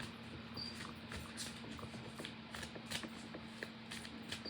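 Tarot cards being shuffled by hand, a run of quick, irregular card snaps and rustles.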